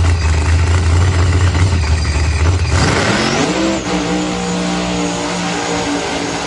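Race car engine running hard and loud. About three seconds in its pitch climbs and holds steady, then drops away near the end.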